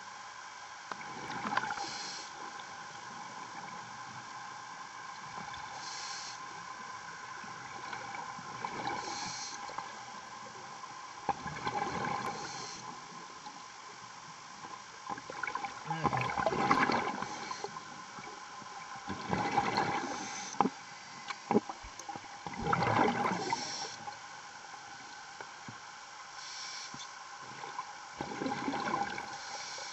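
A diver breathing through underwater breathing gear, a noisy gush of breath and bubbles every three to four seconds, over a steady machine hum with several fixed tones.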